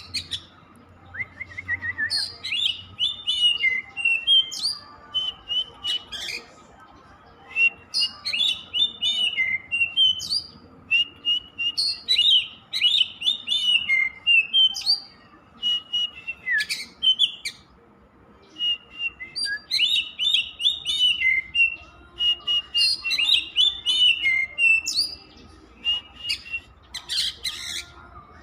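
Oriental magpie-robin singing: varied phrases of clear whistles and quick chirps, delivered in bouts with short pauses between them.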